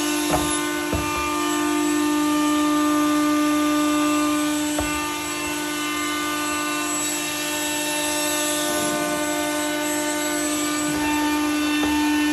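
A steady pitched hum, like a motor running, with a few short knocks and taps.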